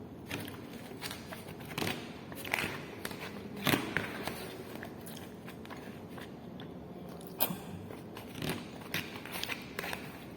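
Close-up eating: biting and chewing on fried chicken at the bone, with irregular crunches and clicks, the loudest about three and a half seconds in.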